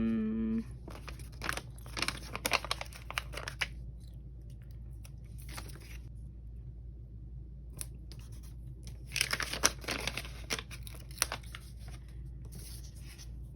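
Paper planner stickers being peeled from their sheet and handled: irregular bursts of tearing and crinkling paper, loudest about nine to eleven seconds in.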